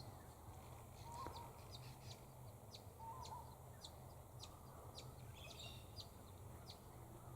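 Quiet outdoor background with faint, scattered short high chirps and a couple of brief distant bird calls over a steady low hum.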